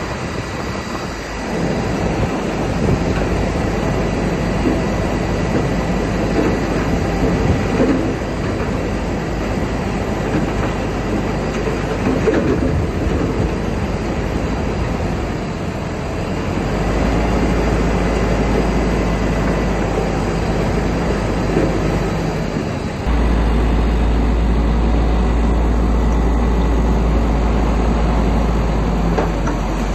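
Crawler bulldozer at work: its diesel engine runs under load with a continuous clatter of steel tracks. The low rumble grows stronger about 23 seconds in.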